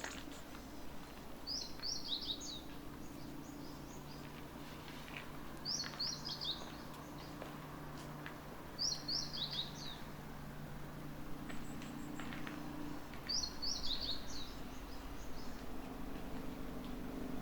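A small songbird singing a short, high phrase of quick descending notes, repeated four times about every four seconds, over the faint steady background of a winter forest.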